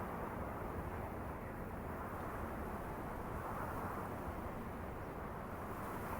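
Snowstorm wind blowing, a steady rushing with a low rumble that swells and eases slowly.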